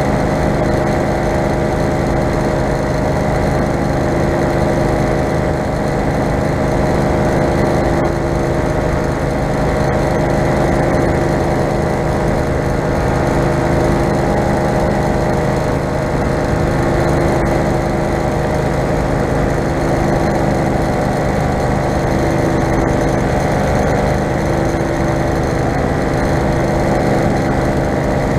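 Falcon four-stroke paramotor engine running steadily in flight, its note holding an even pitch throughout.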